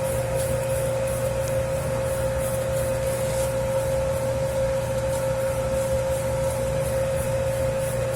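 Dough-kneading machine running steadily while it kneads a large batch of pizza dough (about 10 kg of flour): a constant motor hum over a low drone, with a faint regular pulsing as the dough turns.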